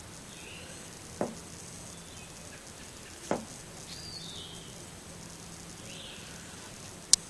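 Faint, brief high chirps a few times over a steady low hiss, with two soft knocks about two seconds apart and a sharp click near the end.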